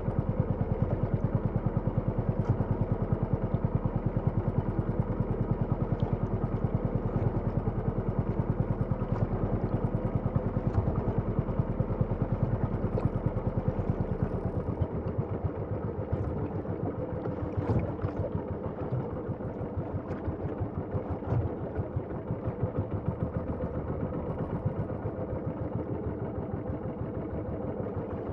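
Small boat engine running steadily with a fast, even beat. Its deepest rumble drops away and it runs a little quieter about halfway through.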